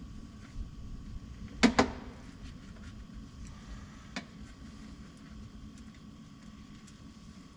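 Two sharp knocks in quick succession about a second and a half in, then a single lighter click a few seconds later, over a faint steady hum and low rumble.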